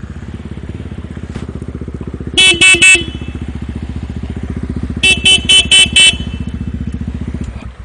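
Single-cylinder Honda Tornado trail motorcycle engine running with an even, rapid pulse while its horn sounds three short beeps, then four more a couple of seconds later. The engine sound cuts out just before the end.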